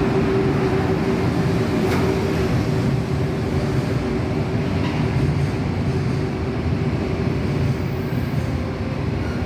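A freight train running past on the tracks: a steady rumble of wheels on rail with a steady hum that fades over the first few seconds, and a couple of faint clicks.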